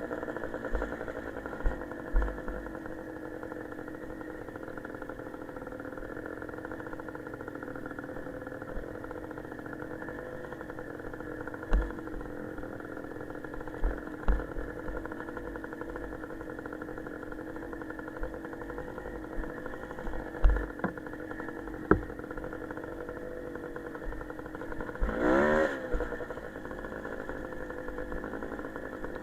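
Small motorcycle engine running at a fairly steady speed, wavering slightly, with one brief rising rev about three-quarters of the way through and a few short knocks scattered through.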